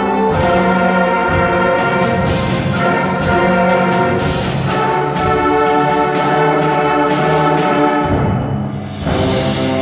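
A beginner middle school concert band plays a brass-led fanfare: sustained brass chords punctuated by repeated percussion hits. The sound dips briefly near the end, then the full band comes back in.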